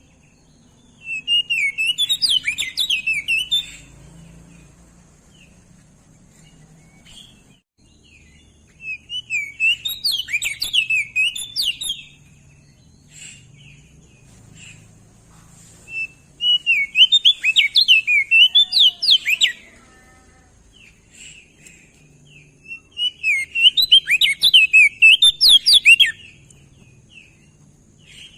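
Crested white-eye (opior jambul) singing four separate bursts of rapid, jumbled warbling. Each burst lasts about three seconds and is made of quick high notes that swoop up and down.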